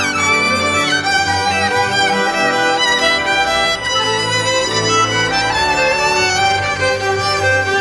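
Instrumental music led by a violin, with a falling slide at the start and sustained notes over a low accompaniment.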